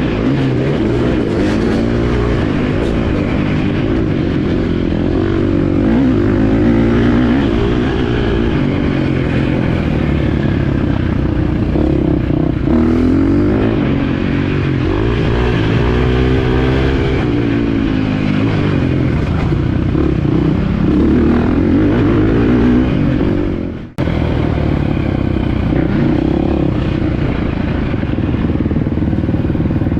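Motocross bike engine being ridden hard, its pitch rising and falling over and over as the throttle is opened and closed, with a momentary break about two-thirds of the way through.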